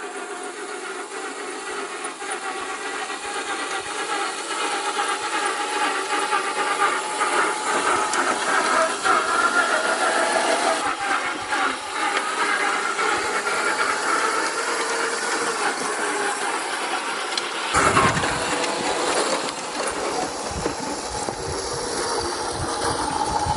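1/6 scale radio-controlled Willys Jeep driving off-road: its motor and gears whine steadily over a hiss, the pitch wavering with speed. About 18 seconds in the sound shifts and a low rumble joins.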